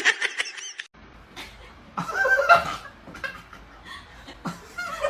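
Someone laughing in short bursts, loudest about two seconds in and again near the end.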